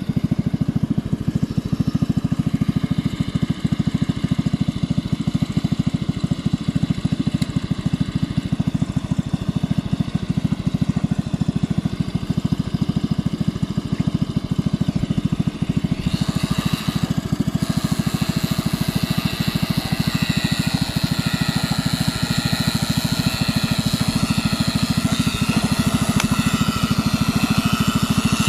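Allis-Chalmers B-110 garden tractor's single-cylinder engine running steadily under the winch build. About sixteen seconds in, a harsher, hissier mechanical noise joins the engine and carries on.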